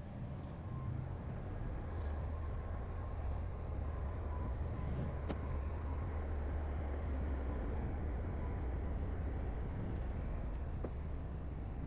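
Heavy diesel earthmoving machinery running steadily with a low engine rumble, and a couple of brief sharp clicks.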